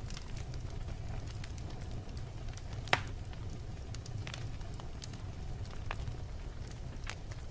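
Wood fire burning in a fireplace: a low steady rumble of flames with scattered crackles and one sharp, loud pop about three seconds in.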